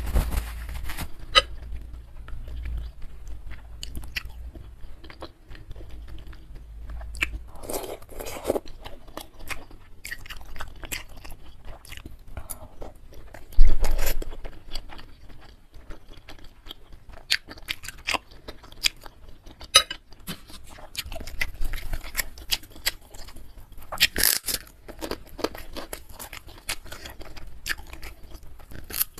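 Close-miked eating: chewing of bakso meatballs and noodles in broth, with crisp crunching bites of a krupuk cracker in the last few seconds. One sharp loud knock about halfway through.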